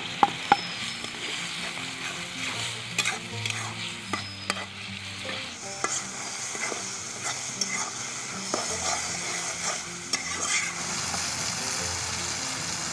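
Chopped onion, tomato and ground spices sizzling in hot oil in a metal karai while a metal spatula stirs and scrapes the pan. There are a few sharp taps near the start, and the sizzle grows brighter about halfway through.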